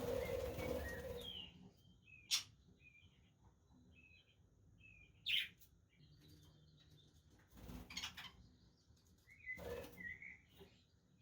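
Budgerigars chirping in short high calls, with bursts of wing flapping in the first second and a half and twice more later, plus a couple of sharp clicks.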